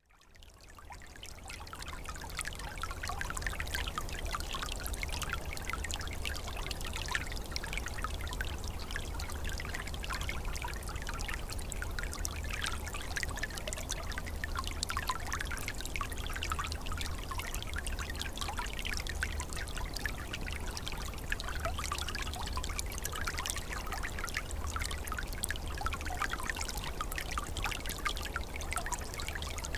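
Small, calm stream flowing, a steady trickle and murmur of running water, fading in over the first two seconds.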